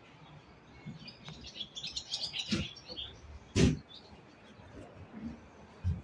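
Small birds chirping in short high twitters for a couple of seconds, with two short, louder knocks or thumps about two and a half and three and a half seconds in, the second the loudest.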